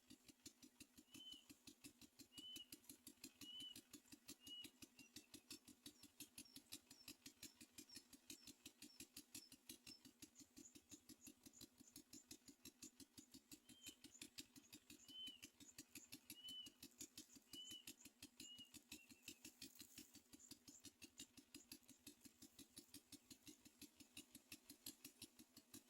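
Faint ambience with a fast, even pulsing throughout, over which a bird gives short, high chirps about once a second in two runs, near the start and again in the middle.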